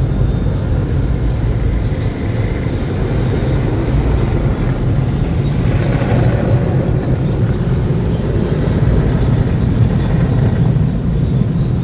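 Automatic conveyor car wash machinery working over the car, heard from inside the cabin as a steady, loud low rumble.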